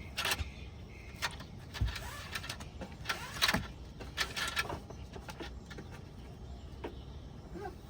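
Handling noise of a tie-down strap being pulled through metal rings: irregular clinks, scrapes and rustles of webbing and hardware, with a few sharper knocks about two and three and a half seconds in.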